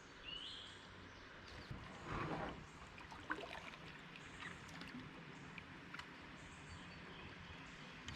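A kayak being launched into a river: a brief noisy swish about two seconds in and a few light knocks, over the faint steady flow of the water. A short rising bird chirp sounds near the start.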